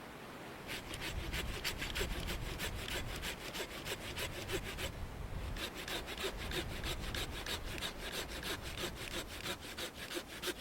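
Hand saw cutting through wood in quick back-and-forth strokes, about four a second. There is a short pause about five seconds in, then sawing starts again.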